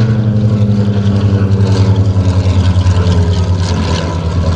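Curtiss SB2C-5 Helldiver's Wright R-2600 Cyclone twin-row radial engine and propeller droning loudly as the plane flies a pass, the pitch sinking slowly as it goes by.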